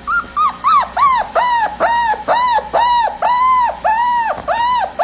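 An animal giving a rapid, regular series of high calls, about two or three a second, each rising then falling in pitch.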